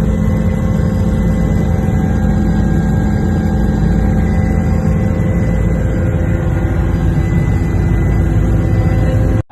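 Loud, steady engine-like rumble with a few held hum tones, cutting off abruptly at the end.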